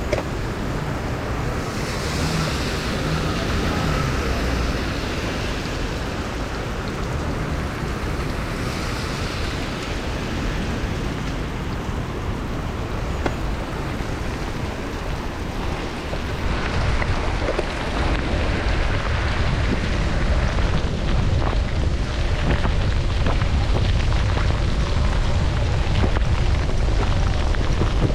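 Steady wind noise buffeting the microphone of a bicycle riding through a rainstorm, with wet road and rain hiss underneath. It gets a little louder a bit past halfway.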